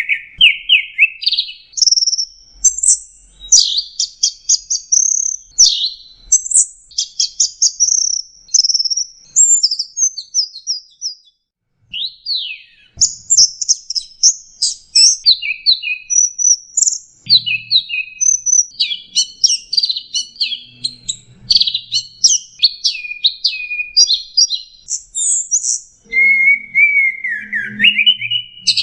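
Long-tailed shrike (cendet) singing a fast, varied string of high chirps, trills and sweeping notes, with a brief break about twelve seconds in.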